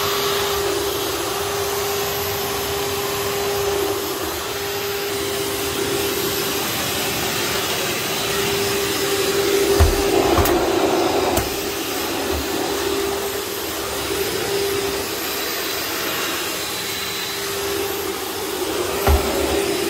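Bosch upright vacuum cleaner running steadily, a constant motor hum with airflow noise. A few low knocks come about ten seconds in and again near the end.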